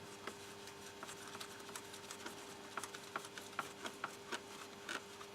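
Faint, irregular small clicks and taps, a few a second, over a steady faint electrical hum.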